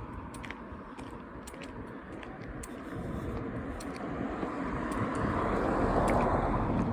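A vehicle passing by: a broad rushing noise that builds over a few seconds, peaks near the end and starts to fade, with faint scattered clicks throughout.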